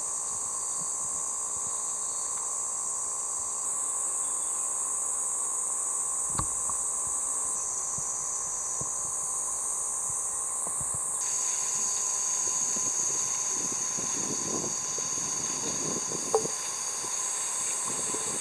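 A steady, shrill chorus of summer insects, its character shifting abruptly a few times, with a few faint clicks.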